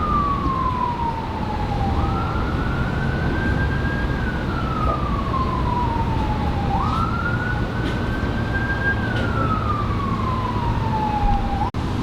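Siren wailing: each cycle jumps up, climbs to a high note, holds it briefly, then slides slowly back down, about three cycles over a steady low background rumble. The sound drops out for an instant near the end.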